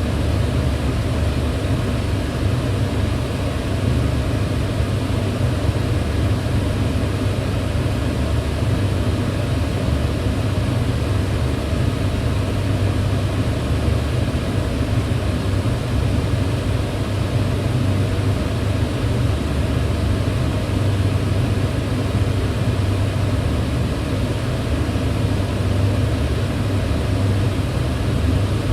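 Kitchen range hood fan running steadily, a constant whooshing hum with a heavy low rumble.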